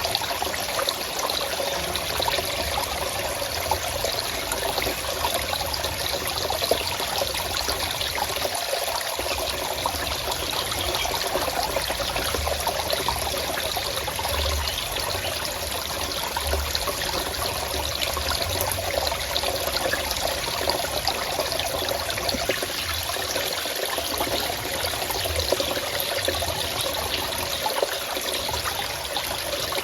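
Water flowing and trickling steadily, an unbroken rush with no let-up.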